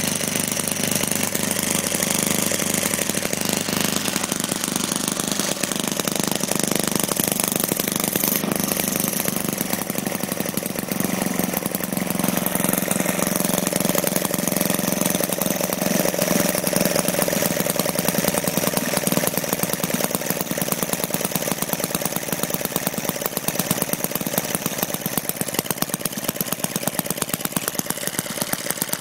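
Small home-built Jerry Howell Powerhouse model internal-combustion engine running steadily with a rapid, even firing rhythm.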